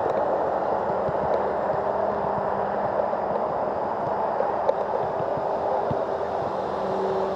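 Electric RC aerobatic plane's brushless motor and propeller buzzing steadily in flight, with a faint steady hum under an even rushing noise.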